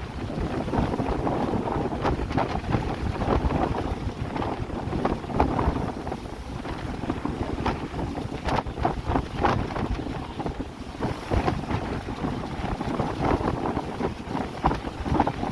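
Wind buffeting the microphone in uneven gusts on the deck of a moving harbour ferry, over the rush of sea water along the hull.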